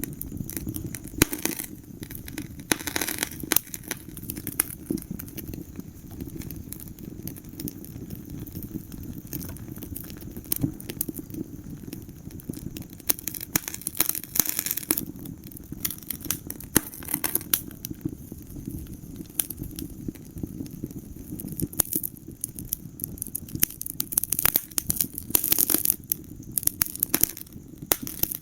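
Wood fire crackling in a fireplace: frequent sharp pops and snaps of burning logs, irregular and of varying loudness, over a steady low rumble of the flames.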